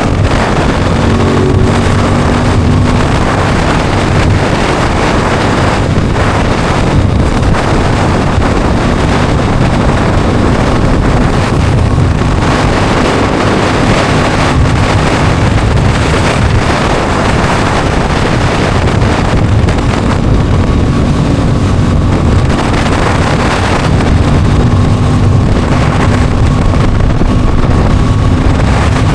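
Aprilia Tuono 660 Factory's parallel-twin engine running while the bike is under way. Heavy wind noise buffets the microphone.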